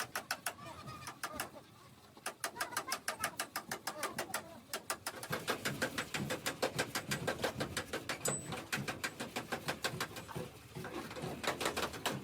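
Rapid, regular tapping, about seven sharp strikes a second, with a brief lull about two seconds in.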